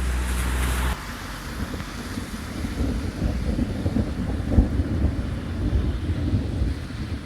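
Wind buffeting the microphone during a thunderstorm. A loud gust hisses for about the first second, then a low, rolling rumble swells and fades.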